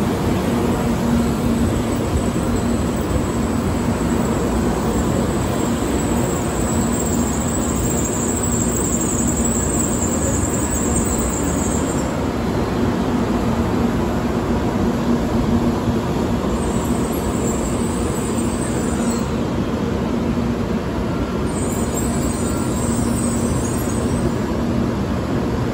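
N700A Shinkansen train rolling slowly along the platform and braking to a stop: a steady rumble with a low hum, and a faint high hiss that comes and goes a few times.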